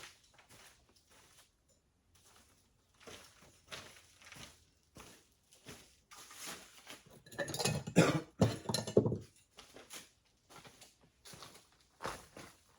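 Shop handling noises: scattered light clicks and footsteps as metal parts and tools are picked up and set down, with a louder clatter of metal knocking about eight seconds in.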